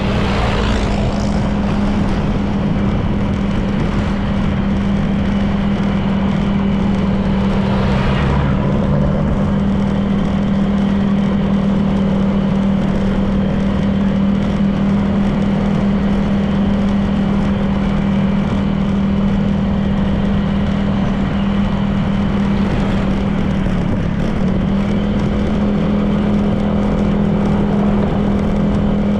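Honda PCX 160 scooter's single-cylinder engine running steadily at road speed under a heavy rush of wind and road noise. Brief swells of noise come near the start and again about eight seconds in, and the engine note dips briefly a little past twenty seconds.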